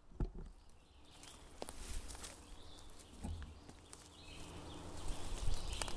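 Faint scattered clicks and rustling of handling noise against outdoor background noise that grows louder near the end.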